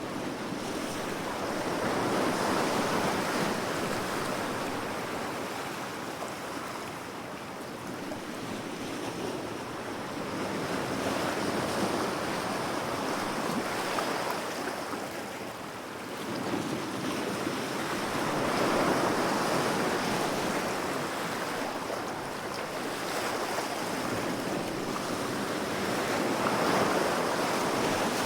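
Ocean waves washing onto a shore, the surf rising and falling in slow swells, a new surge every several seconds.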